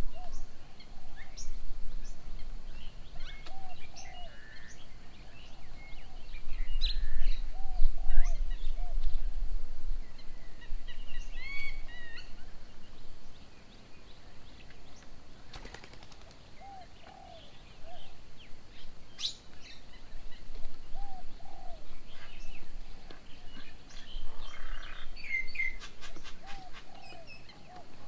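Garden birds calling around a bird table: a low, arched call repeated in short runs of two or three, with scattered higher chirps and twitters over it. A low rumble comes and goes beneath.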